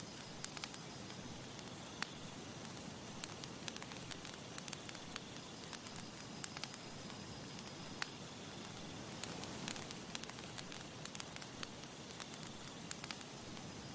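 Campfire crackling: a steady soft hiss of burning wood with frequent irregular sharp pops and snaps, a few of them louder. A faint insect-like chirp runs along under it.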